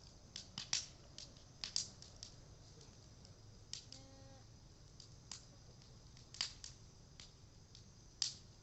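Japanese cedar (sugi) wood burning in a bonfire, crackling with irregular sharp pops and snaps, a few much louder than the rest.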